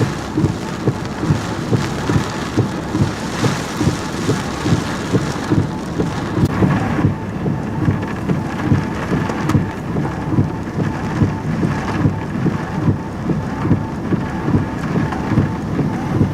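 Heavy hurricane rain and wind beating down in a rapid, uneven drumming with a low rumble underneath.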